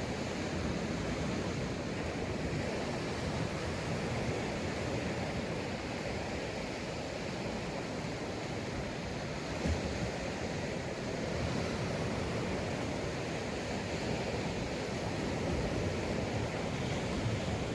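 Sea waves breaking and washing up a sandy beach, heard as a steady rushing with no single crash standing out.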